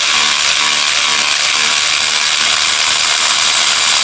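Ratchet wrench clicking steadily as it backs a loosened spark plug out of the cylinder head, stopping just at the end.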